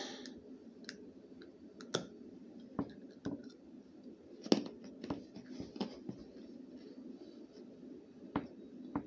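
Scattered sharp clicks and crunches of someone chewing a hard candy close to the microphone, about eight in all, the loudest about four and a half seconds in.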